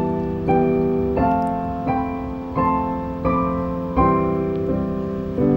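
Solo piano intro playing a slow, gentle chord pattern, a new chord struck about every three quarters of a second and left to ring.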